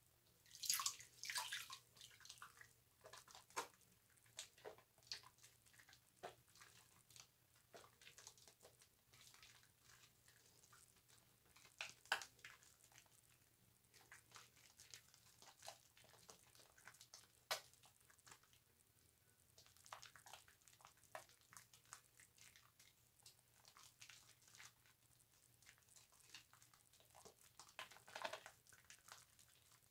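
Bar soap being lathered wet: soft, irregular squishes and crackles of soap suds, with a few louder wet squelches.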